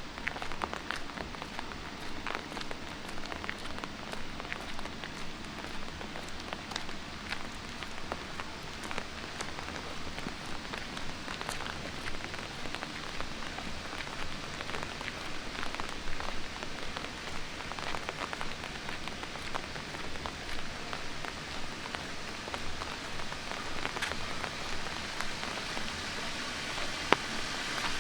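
Light rain falling on city pavement: a steady hiss with many scattered raindrop ticks, and one sharper tick near the end.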